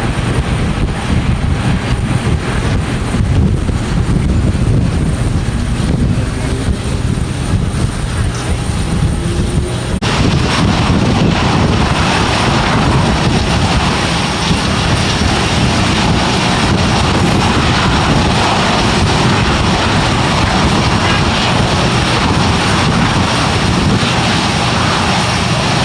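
Jet airliner engines running, heard as a steady low rumble. About ten seconds in, the sound switches abruptly to a louder, hissier rush.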